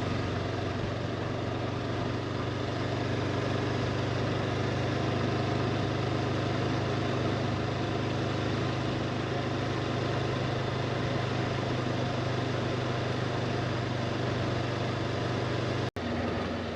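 Honda motorcycle engine running steadily under way, with a constant drone and a rushing haze of road and wind noise. The sound drops out for an instant near the end.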